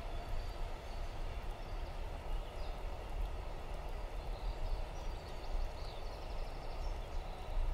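Low, steady rumble of a train running on a nearby railway line, with a few faint bird chirps over it.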